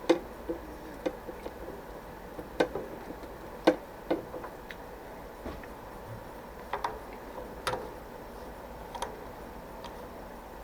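Scattered sharp metal clicks and knocks, irregularly spaced, from tools and parts being handled at a milling machine while a fault in the setup is checked, over a low steady hum.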